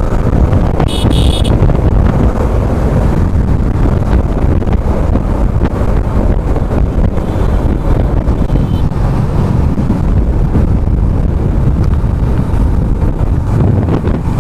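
Wind rushing over the microphone with the steady running of a Yamaha R15M motorcycle and road noise while riding at speed. There is a brief high-pitched sound about a second in.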